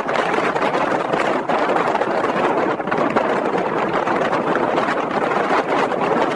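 Blizzard wind rushing steadily, with slight gusts.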